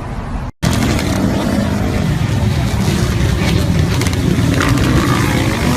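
A motor vehicle's engine running under way, with heavy wind and road noise. The sound drops out for a moment about half a second in, where the video cuts, then comes back loud.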